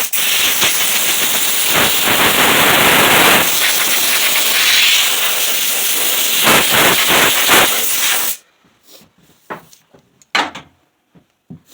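Compressed-air blow gun giving a loud, steady hiss of air that cuts off suddenly about eight seconds in, blowing sanding dust off a freshly sanded wooden cutting board.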